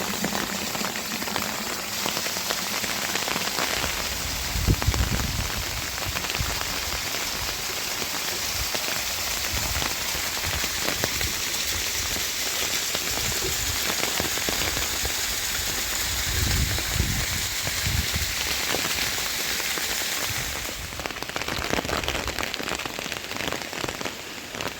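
Heavy rain falling steadily, a dense even hiss of drops, with a few low rumbles about five seconds in and again around seventeen seconds.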